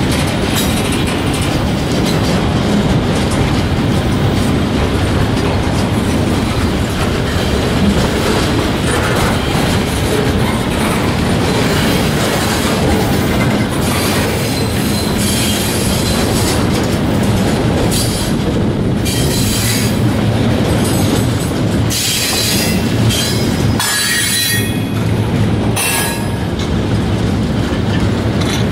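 Loaded steel-carrying flatcars of a long freight train rolling past close by, a steady din of steel wheels clattering on the rails. High-pitched wheel squeals come and go in the second half.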